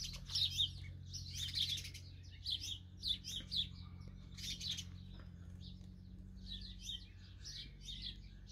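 Small songbirds chirping, many short high chirps in quick clusters all through, over a steady low hum.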